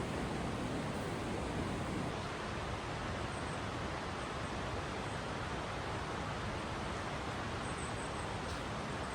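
Steady rush of flowing creek water, an even unbroken hiss.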